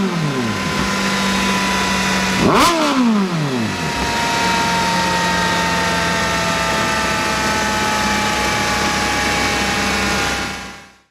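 Kawasaki Z900's inline-four engine through an SC Project 4-2-1 full-system exhaust, blipped once in a quick rev that rises and drops back a couple of seconds in, then idling steadily. The sound fades out near the end.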